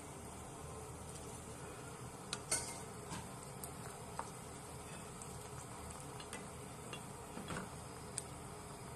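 Sliced onions and green chillies sizzling gently in oil in a nonstick pan, stirred with a wooden spatula that gives a few light clicks and scrapes against the pan.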